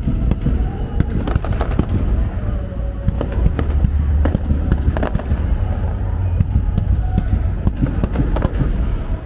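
Fireworks going off in a continuous barrage: many sharp bangs and crackles, several a second, over a deep steady rumble.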